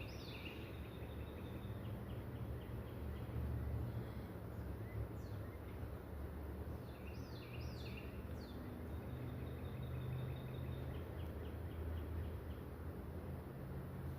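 Small birds chirping: short sweeping calls about a second in and again around seven to eight seconds, each followed by a quick run of short repeated notes. A steady low rumble of outdoor background noise runs underneath.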